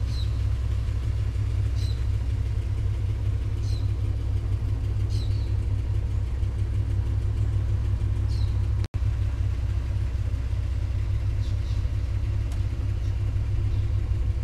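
A car engine idling steadily: an even, deep rumble with a brief dropout about nine seconds in.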